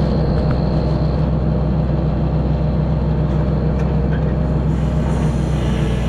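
Diesel engine of a 1964 Kenworth self-loading log truck running steadily, a constant low hum.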